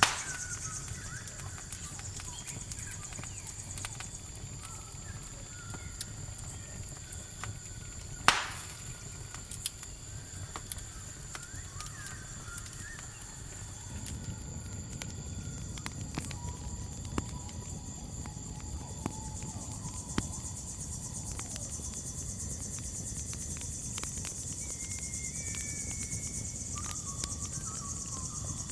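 Campfire crackling with scattered small pops and one sharp pop about eight seconds in, over a steady high chirring of crickets.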